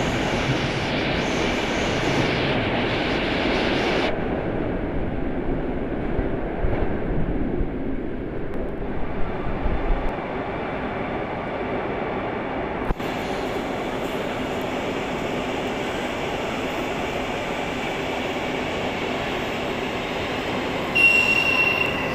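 Passenger train coaches rolling along the track in an underground station, a steady rumble of wheels on rail, with a short high squeal near the end.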